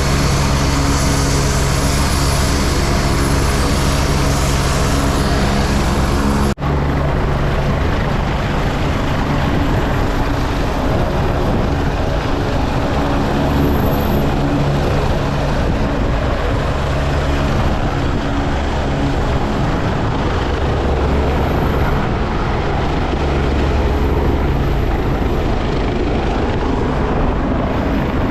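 Helicopter rotors and engine, loud and steady throughout, with a brief break about six and a half seconds in.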